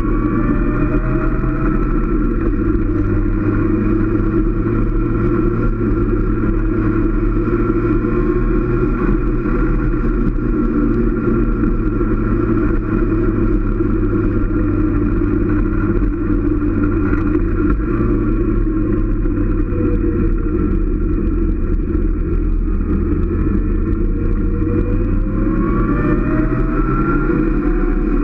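Motorcycle engine running under way, a steady drone whose pitch glides as the throttle changes, rising near the end as it speeds up.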